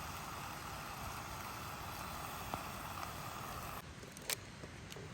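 Wood fire burning in a secondary-combustion stove: a steady rushing hiss with an occasional crack. The rush drops off suddenly near the end, followed by one sharp snap and a few faint ticks.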